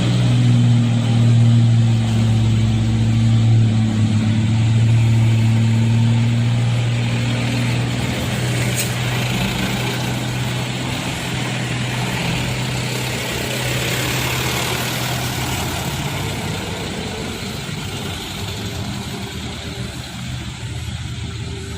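Truck engine running with a steady low hum that fades after several seconds, with road noise swelling midway as the vehicle moves off; the sound slowly grows quieter.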